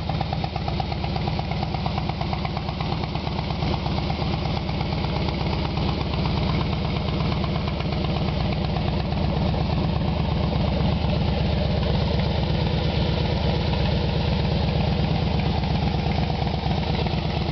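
2009 Harley-Davidson Heritage Softail Classic's air-cooled Twin Cam 96 V-twin idling steadily, pretty loud through Vance & Hines True Duals fishtail pipes with the baffles in, and an open Arlen Ness Big Sucker air cleaner.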